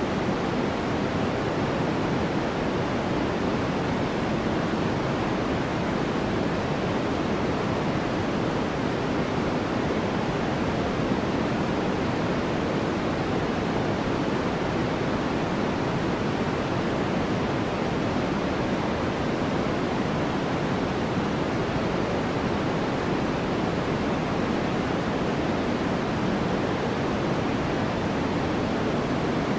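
Steady white-noise track for sleep: an even, unchanging hiss with most of its weight in the low-middle range rather than the treble.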